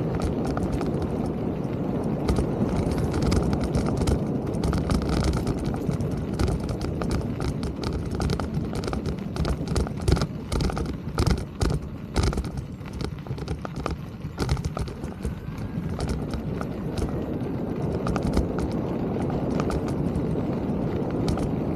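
Mountain bike rolling over rough ground: a steady low rumble with rattling clicks and knocks from the bike, thickest around the middle.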